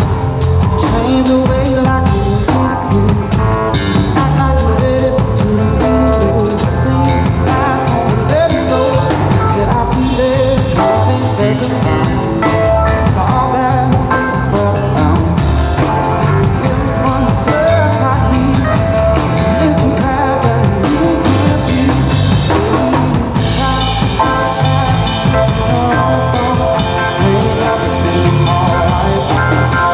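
Live band playing rock music, with a drum kit keeping a steady beat.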